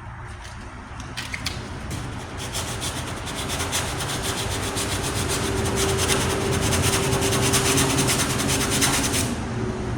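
Coarse 40-grit sandpaper rubbing back and forth over the primer and steel of a truck tailgate patch repair, in rapid scraping strokes that grow louder over the first several seconds.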